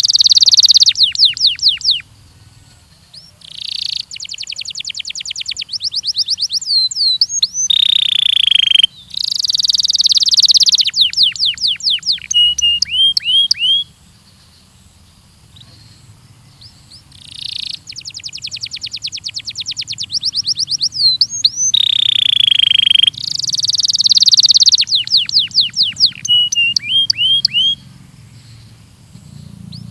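Belgian canary singing in repeated phrases: fast rolling runs of rapidly repeated notes, upward-sweeping whistles and held high tones, with short pauses between song bouts.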